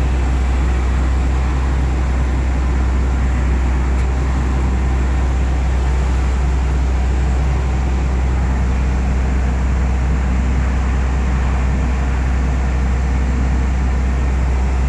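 Heavy engine running steadily with a deep, even drone.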